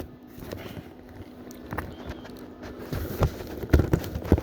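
Handling noise from a welding hood being adjusted and settled into position: irregular knocks, bumps and rubbing, busiest near the end.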